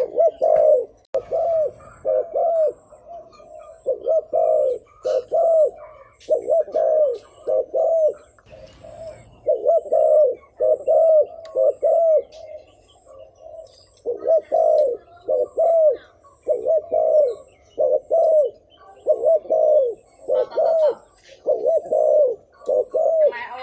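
Spotted dove cooing: a rapid series of short, arched coo notes, about two a second, in runs broken by brief pauses.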